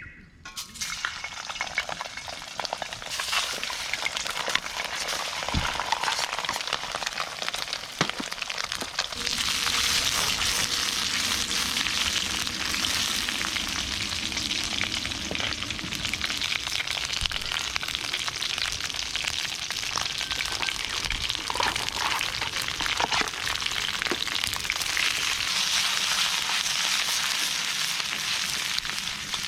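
Food sizzling and frying in a wok over a wood fire, with scattered short clicks. It starts just after the beginning and grows louder about nine seconds in.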